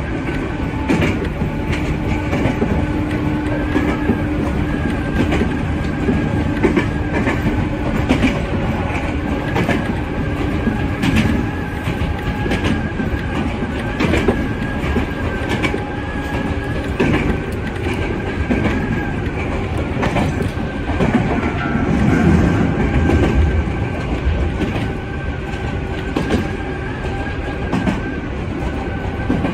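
Electric train running along the line, heard from inside the driver's cab: a steady rumble with a thin whine, and clickety-clack of the wheels over rail joints about every second.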